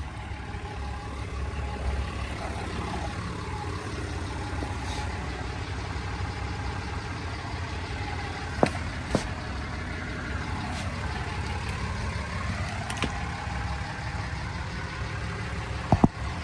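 A motor vehicle engine running steadily at idle, with a few sharp knocks, the loudest two close together near the end.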